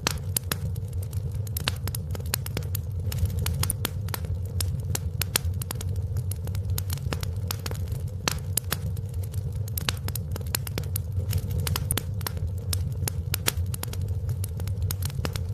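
Wood fire burning in a fireplace, with a steady low rumble of flames and many irregular sharp crackles and pops.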